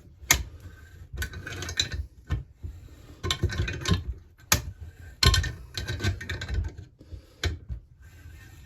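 Spanner and metal parts of a chainsaw crankcase clicking and knocking irregularly as a nut is tightened to draw the crankshaft into its bearing.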